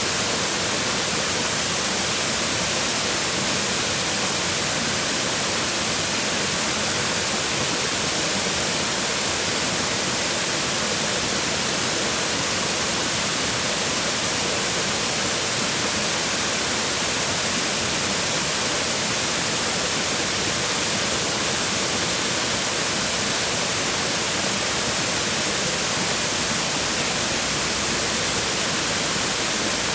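Waterfall: water falling and splashing on rocks, a steady, dense rushing hiss with no breaks.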